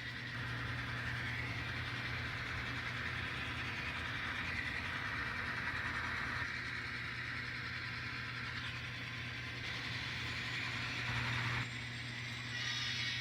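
N scale model diesel locomotive's engine sound running steadily over a low hum. It shifts in level and tone in steps partway through and near the end, as the locomotive throttles during yard switching.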